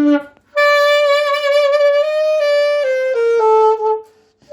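Saxophone played solo: a long held note that starts about half a second in, then steps down through two lower notes before stopping near the end. The phrase demonstrates the high C fingered with the middle side key.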